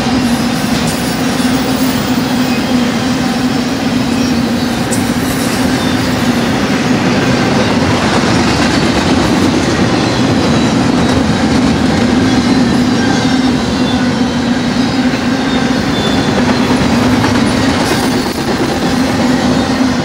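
Double-stack intermodal container cars of a freight train rolling past. The wheels make a loud, steady rumble on the rail, with a low drone held throughout.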